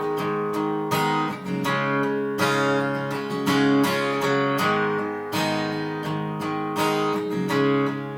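Acoustic guitar strummed in a steady rhythm, chords ringing between strokes, as the introduction before the singing comes in.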